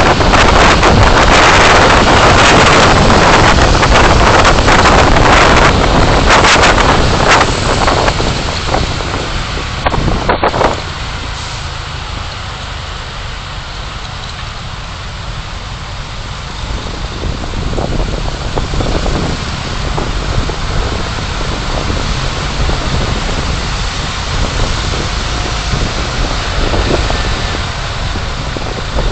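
Road and wind noise from a moving car, picked up by a dashcam microphone. It is a loud, even rush for about the first ten seconds, then drops suddenly to a quieter steady hum.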